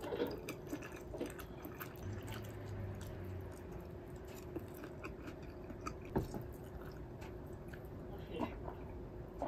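A person chewing a mouthful of spicy fried noodles, with scattered small wet mouth clicks over a faint steady hum; a sharper click about six seconds in.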